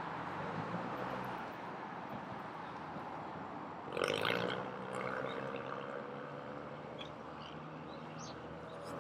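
City street ambience with a steady wash of traffic noise. About four seconds in comes a brief louder rush of noise, then a steady droning tone that lasts to the end.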